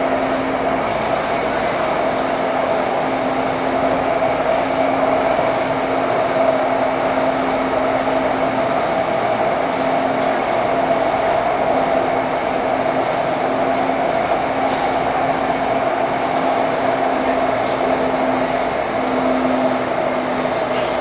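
Taipei Metro C301 train with retrofitted propulsion running steadily through an underground tunnel: a loud, even rumble of wheels on rail with steady motor hum tones.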